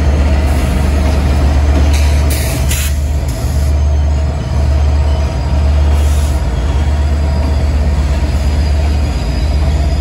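Train running with a steady heavy low rumble. Short high hissing bursts come about two to three seconds in and again around six seconds.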